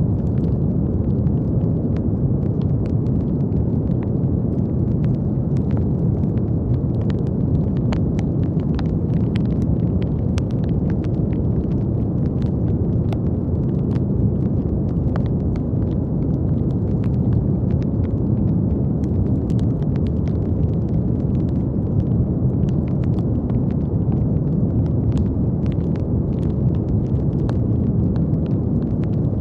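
Steady brown noise: a deep, even rumbling hiss with most of its weight in the low end, unchanging throughout. Faint, scattered crackling clicks sit on top of it, a few each second.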